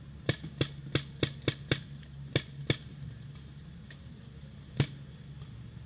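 Paintball marker firing: a quick string of eight sharp shots over about two and a half seconds, then one more loud shot near the end.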